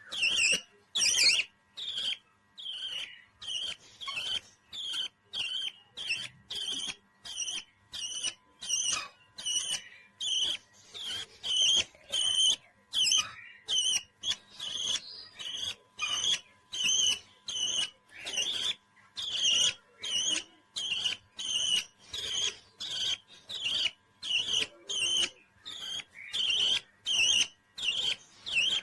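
Pet parrot calling over and over in short, high chirps, about two a second in a steady rhythm.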